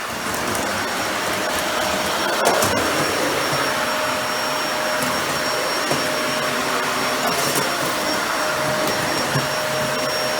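Dyson Ball Animal 2 upright vacuum running on bare floor: a steady suction-motor whine with rushing air, and one sharp knock about two and a half seconds in.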